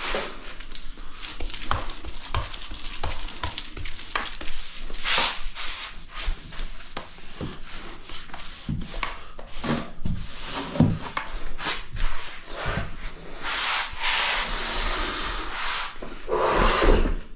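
Grout being rubbed back and forth over tiles, a run of irregular scraping strokes with a few louder passes.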